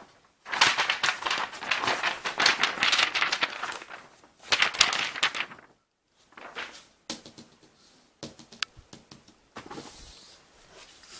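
A hand patting a cat's rump in quick repeated pats, in a run of about three and a half seconds and then a shorter one of about a second, followed by scattered softer taps and rustles.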